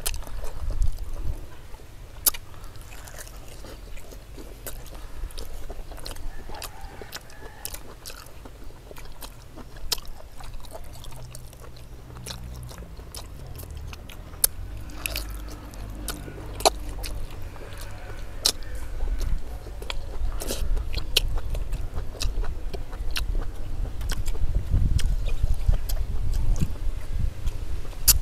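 People chewing and biting braised pig head meat off the bone, with wet chewing and scattered sharp clicks throughout.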